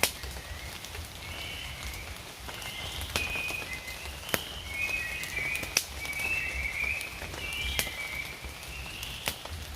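Frogs calling in overlapping warbling calls during rain, with sharp taps of heavy drips every second or so.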